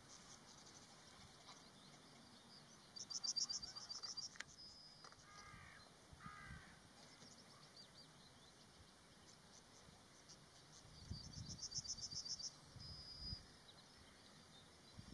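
Faint wild bird calls: a rapid, high trill heard twice, about three seconds in and again about eleven seconds in, with a few lower slurred calls in between.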